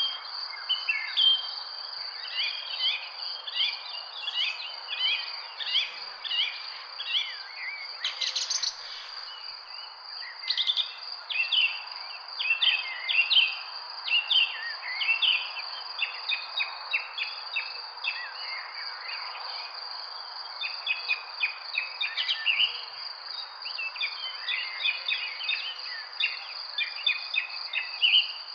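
Many small birds chirping and twittering in quick, overlapping calls over a continuous high-pitched drone and a soft background hiss.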